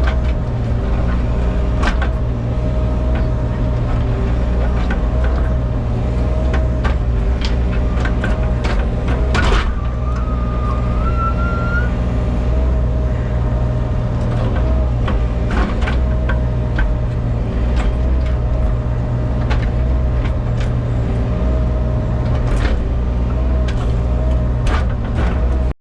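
Engine of the heavy equipment used to set the boulders, running steadily at a constant speed, with scattered sharp knocks and clanks and a short rising whine about ten seconds in.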